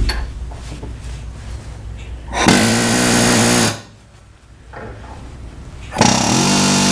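Power hammer rattling against a rusted shaft and nut in two bursts, one about two and a half seconds in and a longer one near the end, each with a steady buzzing rattle. It is being run to shake the rust loose so penetrating oil can soak in.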